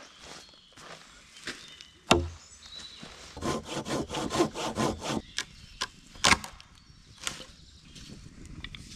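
Dry wood being worked by hand: a sharp knock about two seconds in, then a quick run of hand-saw strokes through wood, and another sharp knock near the middle-end.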